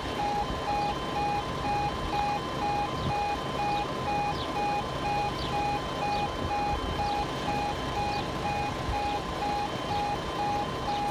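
Level crossing audible warning alarm sounding as a train approaches: a steady pulsing beep, about three beeps a second, over a low background rumble.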